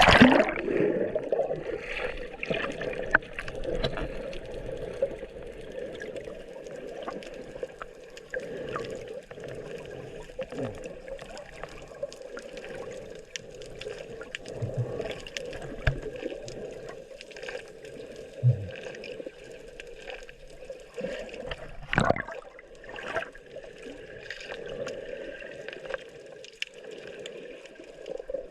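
Water gurgling and trickling, with scattered small clicks throughout and a louder burst of water right at the start.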